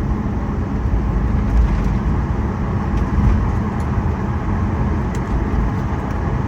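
Cabin noise inside a Boeing 737 MAX 8 taxiing after landing: a steady low rumble of the CFM LEAP-1B engines at idle and the airframe rolling, with a faint click or two.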